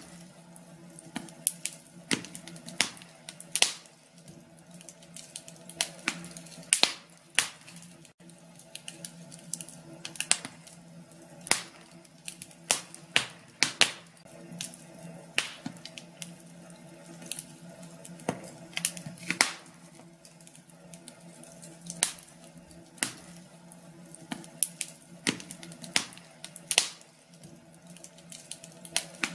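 Wood fire crackling in a fireplace: irregular sharp pops and snaps at uneven intervals, over a faint steady low hum.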